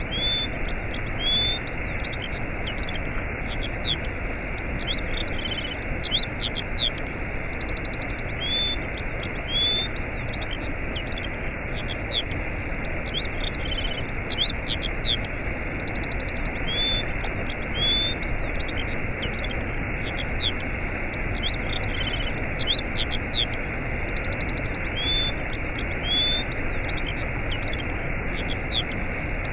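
Steady rush of a waterfall with small birds chirping and whistling over it; the same run of bird calls repeats about every eight seconds.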